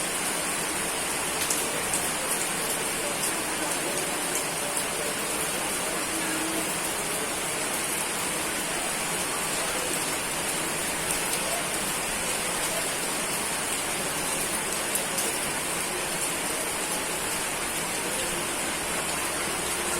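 Steady heavy rain: an even hiss of rain on surfaces, strongest in the high range, with many small drop ticks scattered through it.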